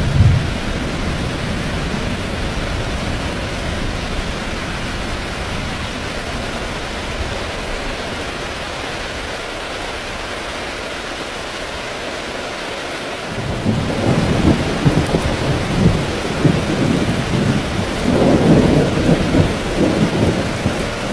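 Heavy rain falling steadily, with a brief low thump at the start. From about two-thirds of the way through, thunder rolls in as a long, uneven low rumble that swells loudest near the end.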